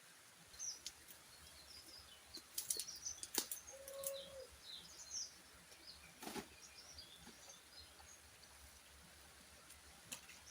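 Small birds chirping in short, high notes, with a few sharp clicks or knocks among them.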